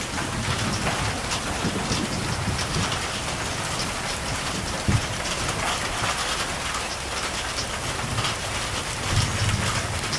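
Steady rain falling, a dense patter of drops with a low thunder rumble swelling underneath now and then, and a single sharper knock about five seconds in.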